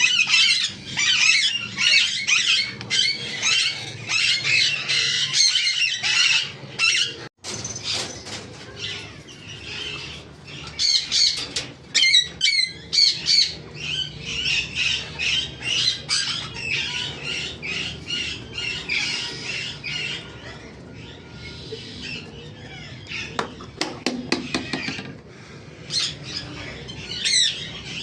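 Baby parrot chicks squawking over and over in rapid, raspy calls, the begging cries of chicks during hand-feeding.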